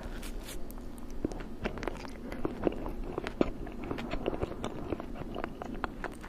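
A person eating an ice cream sandwich close to the microphone: continuous chewing with many small wet clicks and smacks, and a couple of sharper snaps in the middle.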